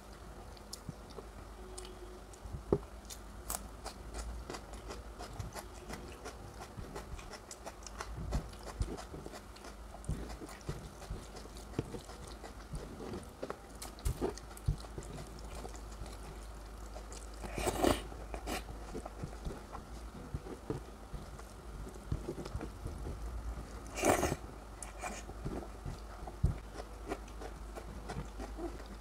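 Close-miked chewing and wet mouth sounds of a person eating curry and rice: a steady run of small clicks and smacks, with two louder bites about six seconds apart in the second half.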